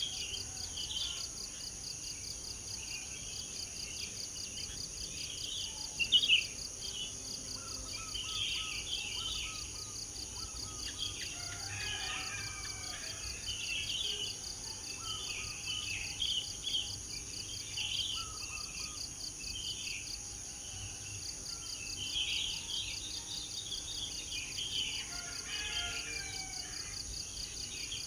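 Several small birds chirping and singing in short, scattered phrases over a steady, high-pitched insect drone, one strand of which pulses rapidly. There is a brief louder burst about six seconds in.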